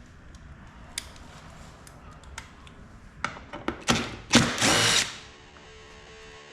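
Cordless power drill driving a socket, run in short bursts, the longest about half a second, to undo a body-panel bolt, after a few light clicks of metal sockets being handled. Electric guitar music comes in near the end.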